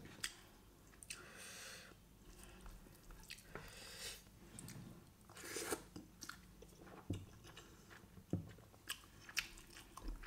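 Close-miked chewing of a mouthful of chicken biryani: quiet wet mouth sounds with scattered small clicks and smacks, a louder smack about six seconds in.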